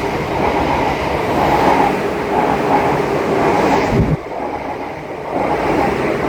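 Train running on rails, a loud steady rumble with a low thump and a sudden drop in level about four seconds in, then building again.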